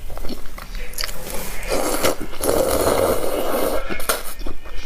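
Eating utensils clinking and scraping against a bowl, with a denser stretch of scraping about two seconds in that lasts about two seconds.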